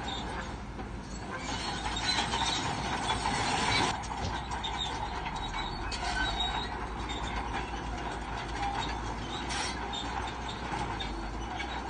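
Crawler bulldozer working, its steel tracks clanking and squealing over the running engine. It grows louder for a couple of seconds near the start, then settles.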